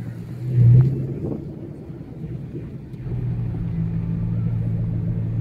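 Dodge Challenger SXT's V6 engine running at low speed, heard from inside the cabin as a steady low drone. A brief louder swell comes about a second in, and the drone grows steadier and louder from about three seconds in.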